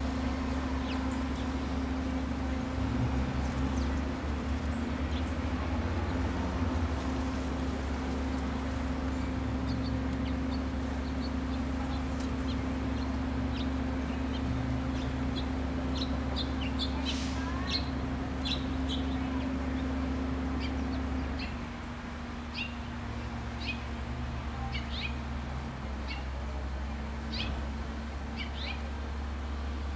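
Short, high-pitched songbird chips scattered over a steady low hum. The chips become frequent from about ten seconds in, and the hum drops a little about two-thirds of the way through.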